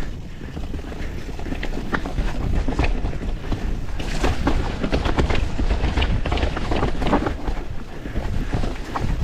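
Wind buffeting the camera microphone and a full-suspension mountain bike rattling down a rough trail at speed, its tyres running over dirt and roots. A busy run of clacks and knocks from the bike over bumps picks up about four seconds in.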